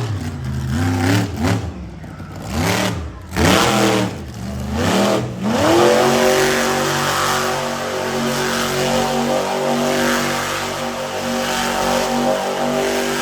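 Monster truck engine revving hard, its pitch swooping up and down several times in the first five seconds, then held steady at high revs for the rest.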